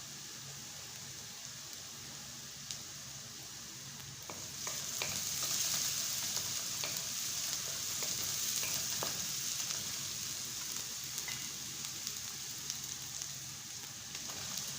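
Food sizzling in a frying pan: a steady hiss that gets louder about four seconds in, with scattered clicks of a utensil stirring in the pan.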